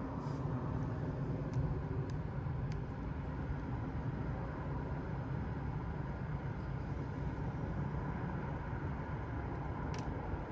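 Airplane passing overhead, a steady low rumble.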